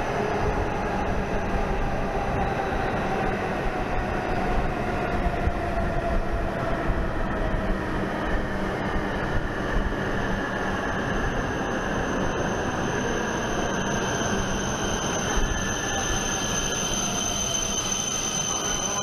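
Hokuriku Shinkansen train running at the station: a loud, steady rolling rumble with a whine that slowly falls in pitch over the first half and a steady high tone above it.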